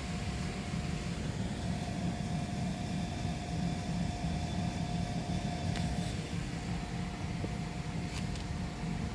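Tunnel car wash machinery running: a steady low rumble with a faint constant hum, and a couple of short clicks in the last few seconds.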